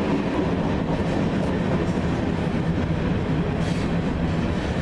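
Train running by: a steady, loud, low rumble.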